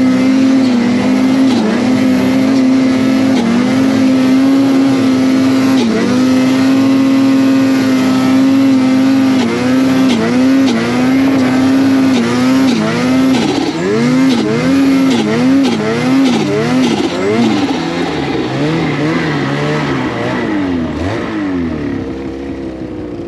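Snowmobile engine running at a steady throttle for about ten seconds. It then rises and falls in pitch again and again with quick throttle changes, and settles to a lower note near the end.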